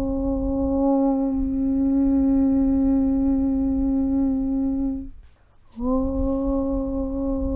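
A low voice chanting a long, steady 'Aum' hum. It breaks off about five seconds in, and a new 'Aum' starts just under a second later.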